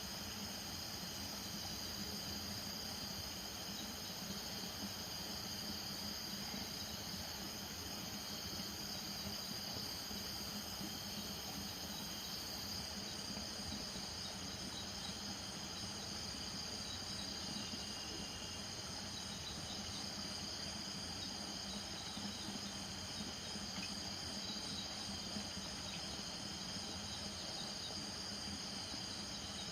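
Night chorus of crickets, a steady shrill chirring, over a low steady drone.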